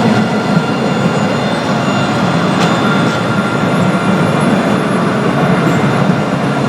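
Tram running steadily: even rolling noise with a steady high whine. Two faint clicks come a little under halfway through.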